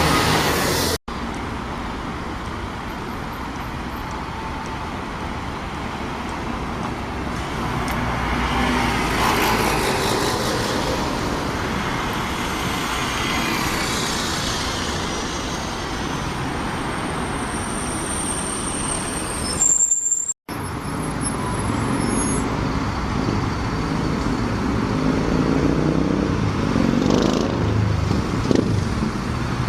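Road traffic noise: motor vehicles running and passing, over several shots joined by two sudden cuts.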